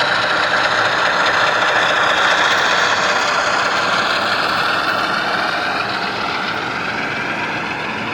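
HO scale model train running on the layout track: a steady running noise with a faint whine that slowly falls in pitch, growing a little quieter over the last few seconds.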